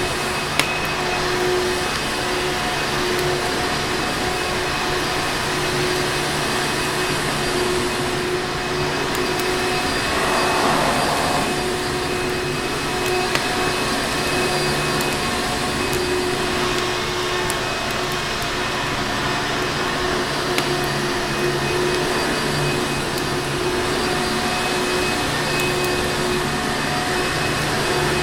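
Vacuum cleaner running steadily, a continuous rushing noise with a motor hum. A few sharp pops of a crackling fireplace are mixed in.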